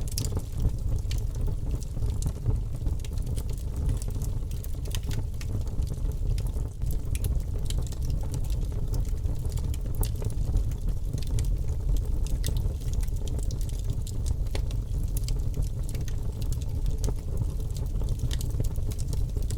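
Wood fire burning in a fireplace: a steady low rumble of the flames with frequent irregular crackles and snaps from the burning logs.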